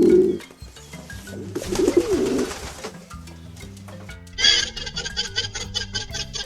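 A pigeon cooing, two low calls in the first two and a half seconds, over background music. Near the end a fast, even rhythmic ticking comes in.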